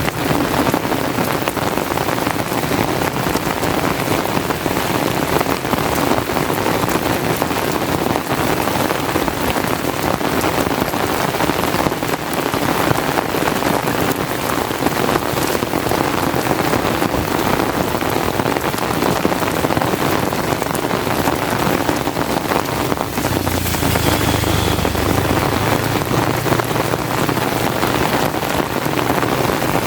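Steady heavy rain, a dense crackle of many drops. A low rumble rises under it for a few seconds about three-quarters of the way through.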